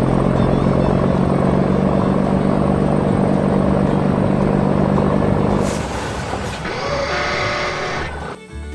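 Heavy machine's diesel engine running steadily. About six seconds in the sound changes, with a short burst followed by a higher tone before a brief drop near the end.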